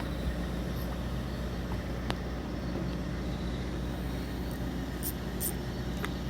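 A fishing boat's engine running steadily, a low even hum, with a couple of faint sharp clicks.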